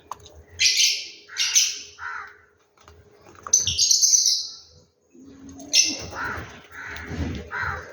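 Birds calling: a series of short, rasping calls, about six of them, each under a second, separated by brief pauses.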